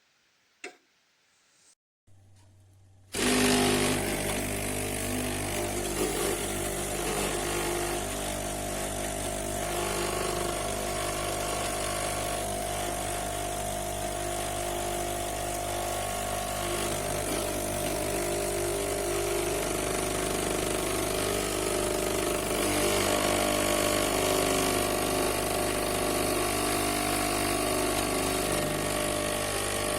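A click, then about three seconds in the De'Longhi Vintage Icona espresso machine's pump starts and runs steadily: a loud buzzing hum with a hiss above it.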